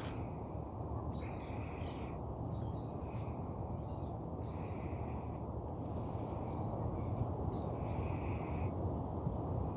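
Wild birds calling: a run of short, high calls, several in the first half and a cluster again near the end, over a steady low background rumble.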